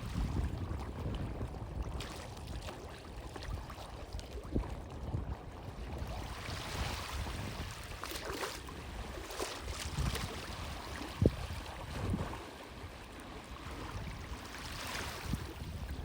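Strong wind rumbling on the microphone over small harbour waves washing against the quay, with swells of hissing wash about six to nine seconds in and again near the end. A single sharp knock stands out about eleven seconds in.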